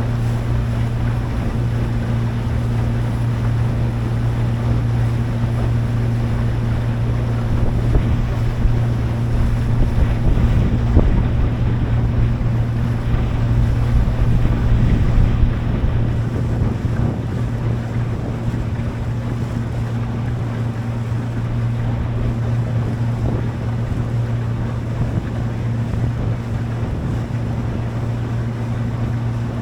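Boat engine running at a steady pitch, with water rushing past the hull and wind on the microphone; a little louder and rougher for several seconds around the middle.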